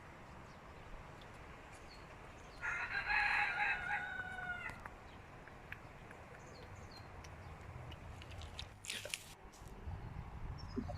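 A rooster crows once, a single call of about two seconds starting near three seconds in, its pitch dropping slightly at the end.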